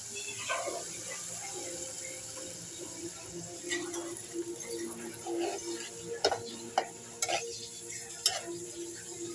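Small gulsha fish in spiced gravy sizzling in an aluminium pot as they braise in a little water. A metal spoon stirs the gravy and knocks against the pot about six times, mostly in the second half.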